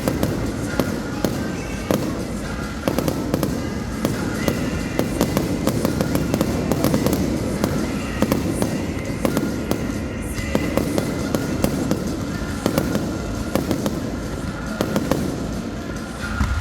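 Fireworks display: a dense, irregular run of bangs and crackles, one after another, over music playing.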